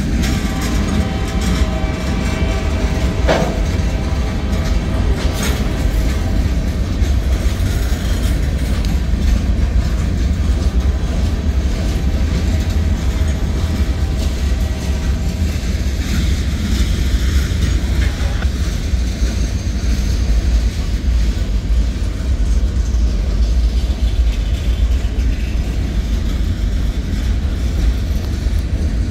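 Norfolk Southern manifest freight train's cars rolling past at speed: a steady heavy rumble of steel wheels on the rails with clickety-clack. High ringing tones sound over it in the first few seconds, and there are two sharp bangs about three and five seconds in.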